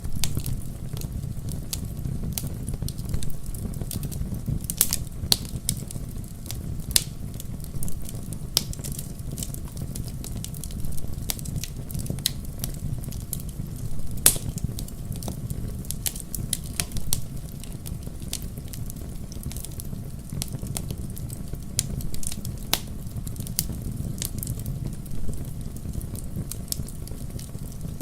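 Wood fire burning in a fireplace: a steady low rumble of flames with frequent irregular sharp crackles and pops, a few louder snaps standing out.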